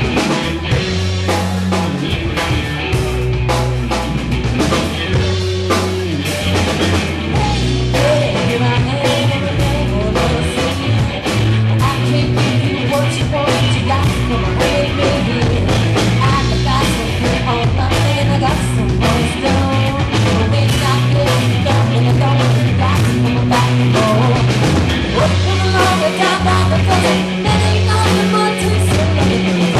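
Live rock band playing an instrumental passage: bass guitar, electric guitar and drum kit with a steady beat.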